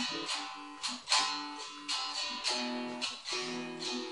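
Ovation acoustic guitar strummed in a chord pattern, each strum hitting sharply and dying away before the next.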